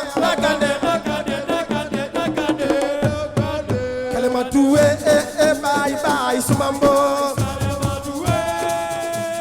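Senegalese assiko music: a voice singing over fast hand-drum percussion.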